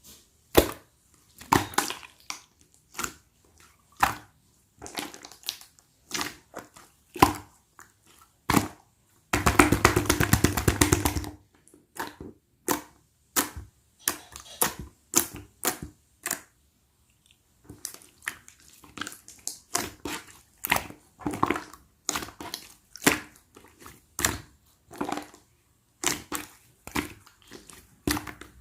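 Jiggly slime being squeezed and pressed by hand, giving irregular sticky clicks and pops. About a third of the way in there is a rapid run of crackling pops lasting about two seconds.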